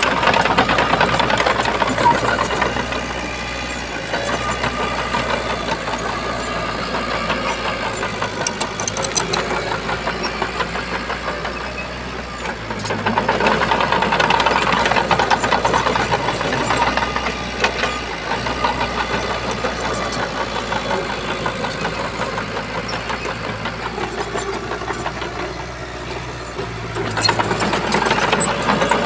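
Diesel engine of a Shantui bulldozer running steadily. It grows louder three times, near the start, about halfway and near the end, with quieter running in between.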